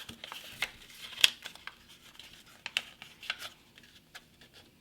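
A sheet of printer paper being folded and creased by hand: crisp crackles and rustles of the paper, the sharpest about a second in, growing quieter toward the end.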